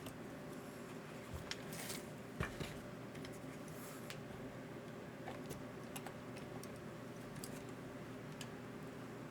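Scattered light clicks and taps of small plastic and metal parts and tools being handled while working on an RC car's shocks, over a steady background hum.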